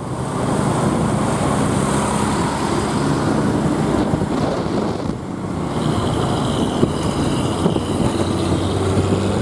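Motorbike engine running under way in traffic, with wind buffeting the microphone and road noise around it. A high, thin whine joins about six seconds in.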